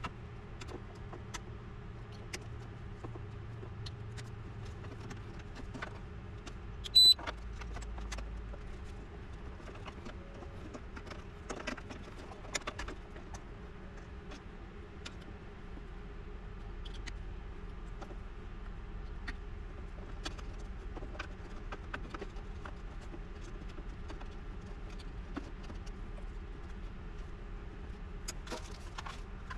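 Scattered small clicks and light metallic taps from hands working on an electronic device, over a low steady hum. One short, high beep sounds about seven seconds in.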